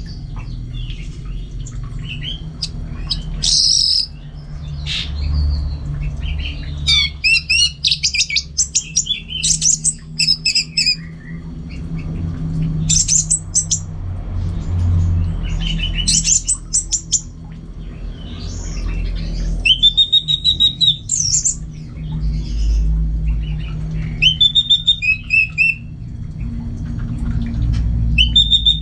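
Orange-headed thrush singing, in bursts of varied, rapid whistled notes and trills separated by short pauses. A steady low hum runs underneath.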